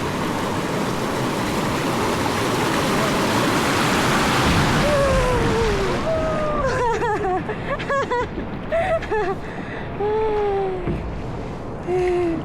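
Rushing river water, a loud steady hiss that swells to its loudest about four seconds in and then eases. In the second half a person's voice gives several short drawn-out calls, most falling in pitch.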